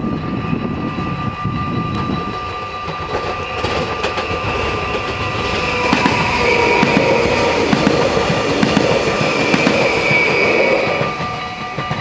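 Electric multiple-unit passenger train running past at close range, its wheels clattering on the rails with a steady whine over the top. It grows louder about halfway through, then fades near the end.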